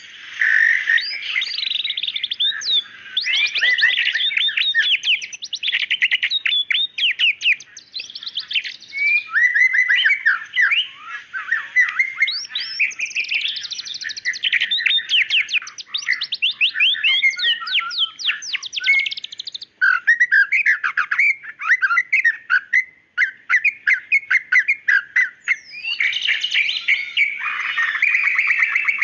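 White-rumped shama singing a continuous, varied song of whistled notes and fast rattling strings of rapid notes.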